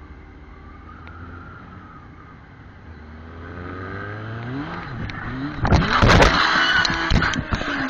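Motorcycle engine revving up, its pitch rising, then about two seconds of loud, rough noise with sharp knocks near the end.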